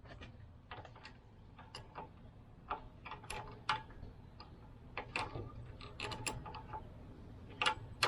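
Irregular metallic clicks and knocks of a hand wrench working the half-inch nuts that hold the carburetor on, a few clicks a second with uneven gaps.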